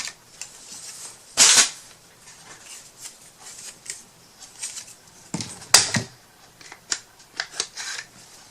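Crafting handling noises: a short scraping swipe about a second and a half in, a sharp snap near six seconds, and scattered light clicks and taps as paper strips and small wood pieces are cut and handled.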